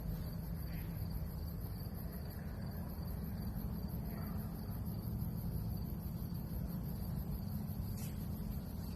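Insects trilling steadily in a continuous high tone over a constant low rumble.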